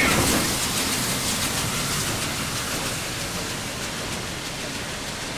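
Steam train noise: a steady rushing hiss that slowly fades.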